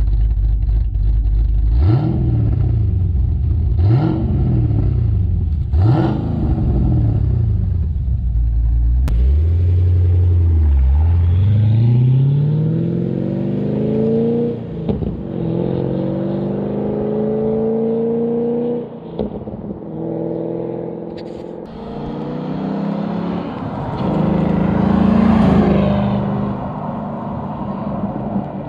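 Holden VE SS Commodore's 6-litre V8 with a custom camshaft, heard at the twin exhaust tips: idling, then revved sharply three times about two seconds apart. Then it accelerates hard, the pitch climbing in several long pulls broken by short drops at the gear changes.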